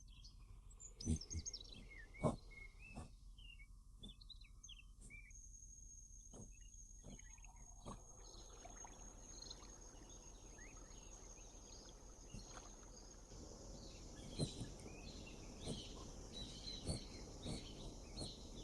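Faint outdoor nature ambience: scattered bird chirps over a steady high insect buzz that starts a few seconds in, with a few soft clicks near the beginning.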